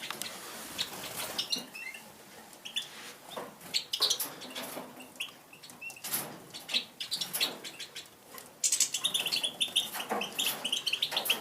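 Small captive finches fluttering their wings and giving short high chirps. About three-quarters of the way through, a quick run of repeated chirps starts.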